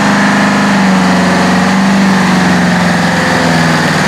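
Competition pulling tractor's engine running loud and steady, its pitch sagging slightly and then recovering.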